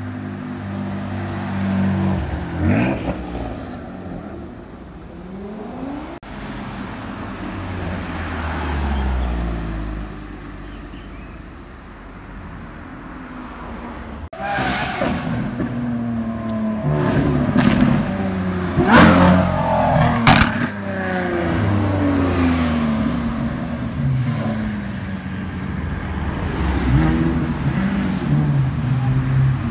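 Performance cars driving past one after another, engines revving and accelerating in rising and falling sweeps. The loudest pass comes about two thirds of the way in, with two sharp cracks, and another car revs up near the end.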